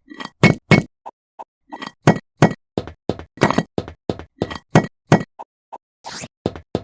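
Miniature bricks knocking and clinking against each other as they are handled, a quick irregular run of short hard clicks, roughly two to four a second.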